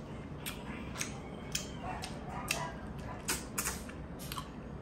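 Close-miked eating sounds: sharp, irregular wet clicks and smacks of a mouth chewing and sucking on stewed fish, several in a few seconds.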